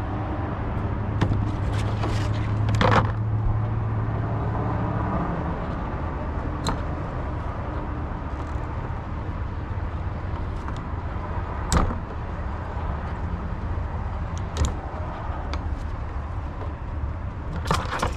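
A vehicle engine hums steadily, strongest for the first five seconds. Over it come a few sharp clicks and snaps, the loudest about three seconds in, as a windshield wiper blade is unclipped from its arm and a new one is fitted.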